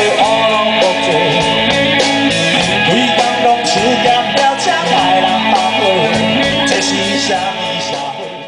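Live band playing rock music, led by guitar over a steady beat.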